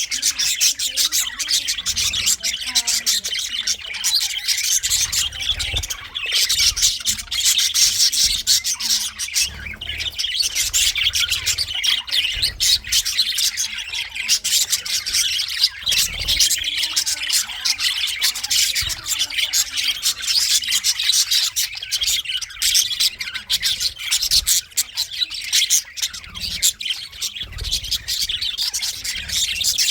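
A flock of budgerigars chattering, with continuous overlapping chirps and squawks.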